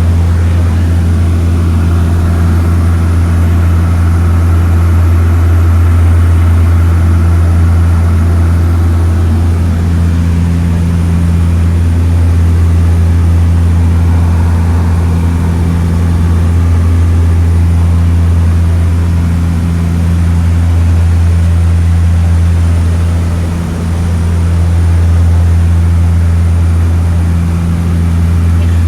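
Seaplane's propeller engines running in a loud, steady low drone, with one brief dip in level near the end.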